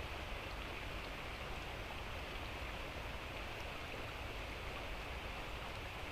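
Light rain falling steadily, an even hiss with a few faint drip ticks.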